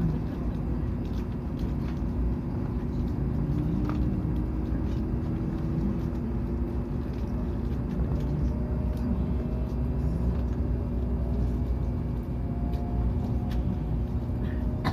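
Hokuriku Shinkansen train heard from inside the passenger cabin: a steady low running rumble, with faint motor whines slowly rising in pitch as the train picks up speed after leaving a station.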